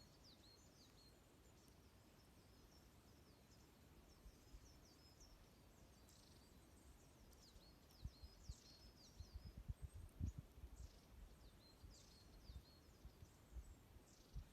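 Many small birds chirping faintly in short, high calls. Soft low thumps and pops come in from about eight seconds in.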